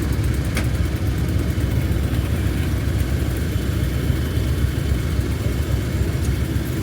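Heritage diesel locomotive engine running steadily with a deep, even rumble.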